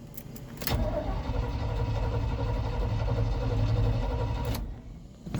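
1978 Chevy K30's starter cranking the engine after four pumps of the gas pedal, about four seconds of steady cranking that stops suddenly without the engine clearly catching. The truck has sat for a couple of months. A click just before the cranking begins.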